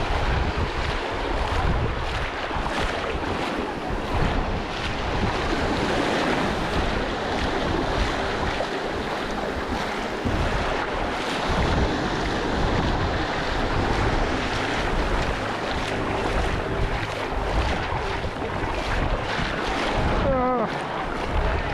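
Small boat under way at sea: wind buffeting the microphone over water rushing past the hull and the boat's motor running, a steady, even noise throughout.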